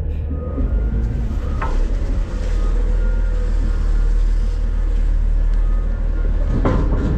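Front-load garbage truck running with a steady low rumble, heard from inside its hopper, with two brief knocks, one about a second and a half in and one near the end.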